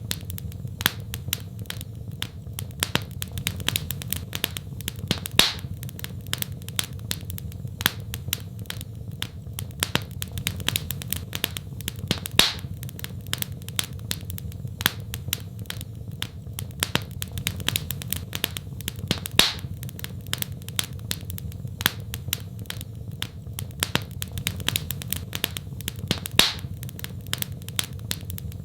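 Wood fire crackling in a fireplace: many small irregular snaps and a few louder pops every few seconds, over a steady low rumble.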